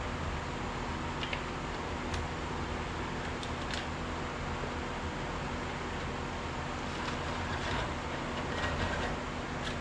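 Steady mechanical hum with a few faint light clicks or taps scattered through it.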